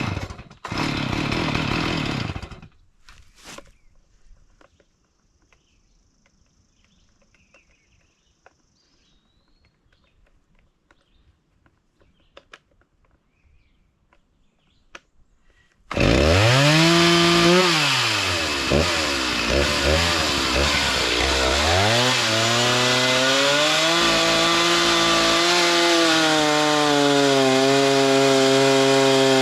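A short loud burst of noise at the start, then mostly quiet with faint clicks. About halfway through, a small gasoline engine cuts in loud, its speed rising, falling off and climbing again before it holds a steady high pitch, the sound of a saw working lumber.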